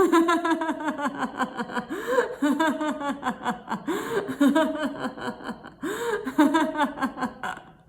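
A woman laughing on purpose in laughter-yoga style: three runs of quick, rhythmic 'ha-ha-ha' bursts, each starting with a rising whoop.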